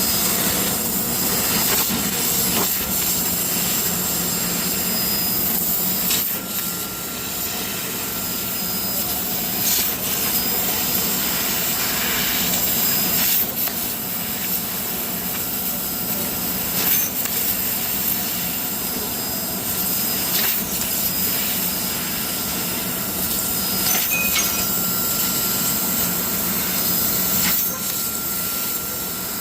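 CNC laser cutting machine cutting steel sheet: a steady high hiss over a constant machine hum, with scattered sharp clicks.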